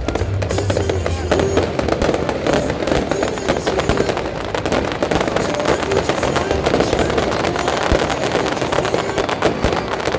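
Fireworks display going off continuously: a dense run of rapid cracks and bangs, with music underneath.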